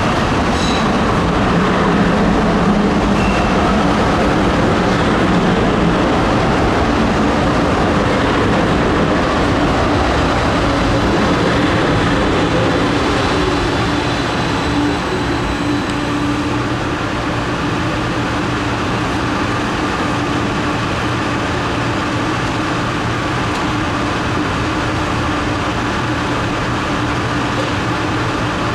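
Light rail train pulling into an underground station platform and slowing to a stop, then standing at the platform with a steady hum from its equipment.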